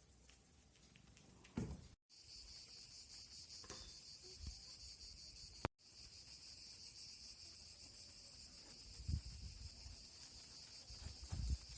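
Crickets chirring steadily in a high, continuous band, starting after a brief dropout about two seconds in. A few low thuds, the loudest near the end.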